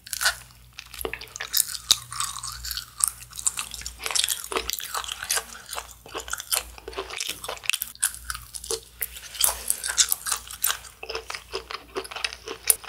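Close-miked chewing of firm grilled cheese, a dense, irregular run of small crunchy clicks.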